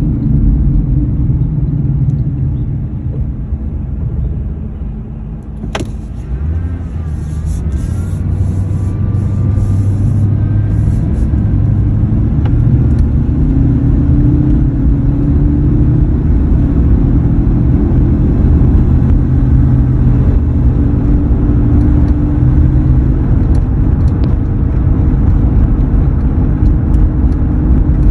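2003 Ford F-150 on the move, heard from inside: a steady low road and drivetrain rumble with a hum whose pitch slowly climbs as speed builds. This is the humming noise the owner is chasing, its cause not yet known. The sound eases a few seconds in before picking up again, and a single sharp click comes about six seconds in.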